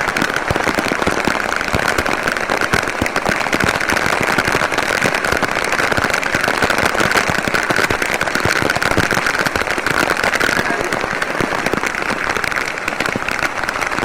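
Heavy rain falling and pattering densely on hard surfaces, a steady loud crackle of countless drops that thins a little in its highest tones about three quarters of the way through.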